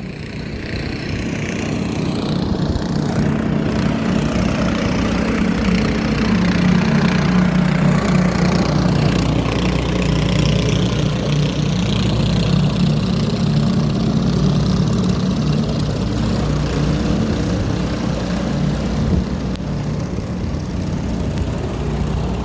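An engine running steadily close by, growing louder over the first several seconds and then holding.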